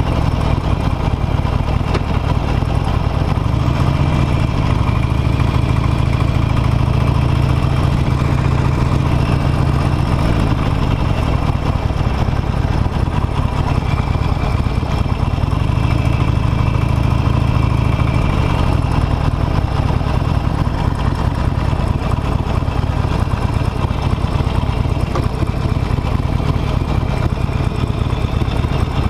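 Harley-Davidson Nightster's V-twin engine running as the motorcycle is ridden at low speed, growing louder twice under throttle, about four seconds in and again around sixteen seconds.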